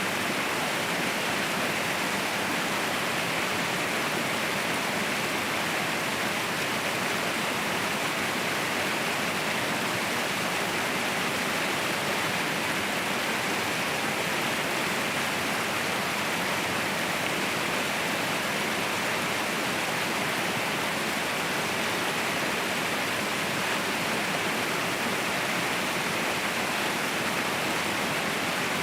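Mountain waterfall: a steady rush of falling water, even and unchanging.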